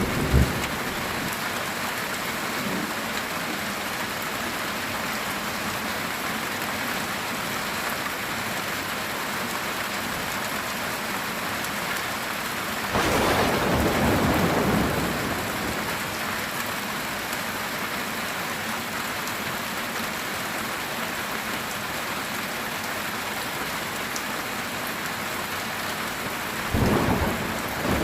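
Steady heavy rain drumming on a metal tin roof, with a sudden roll of thunder about halfway through that fades over a few seconds, and another starting near the end.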